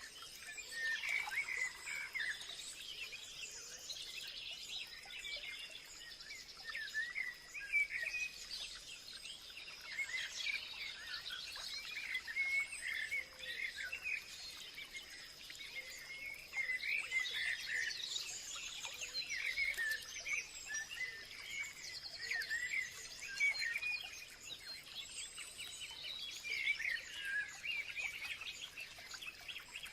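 Many small birds chirping and calling at once, short overlapping chirps coming thick and fast, over a steady faint high-pitched tone.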